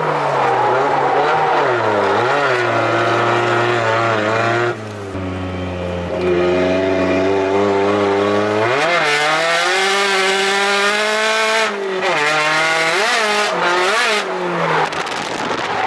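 Car engine being driven hard on a racing circuit, revs climbing and falling again and again as the throttle is worked. About five seconds in it drops to a low, steady note, then climbs again near nine seconds.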